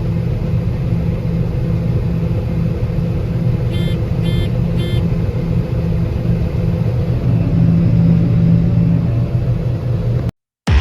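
Combine harvester running steadily while cutting corn, a constant low drone, with three short electronic beeps about four seconds in. The sound cuts off suddenly just before the end.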